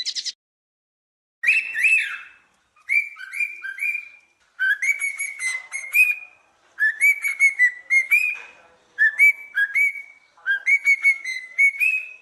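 A songbird singing about six short phrases of clear, whistled notes, each phrase lasting one to two seconds with brief pauses between.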